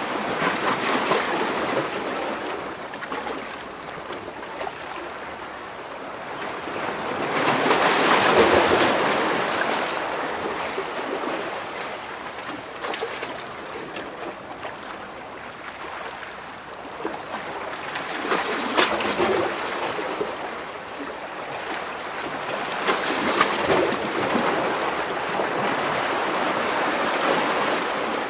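Waves washing and splashing between rocks: a continuous wash of water that swells and ebbs, with the biggest surges about 8 seconds in and again near 19 and 24 seconds, each with sharp splashes.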